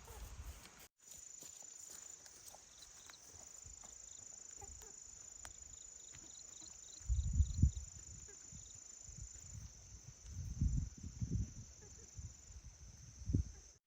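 Steady high-pitched insect drone, with a short run of quick chirps near the middle. Dull low thumps and rustles come in several times in the second half.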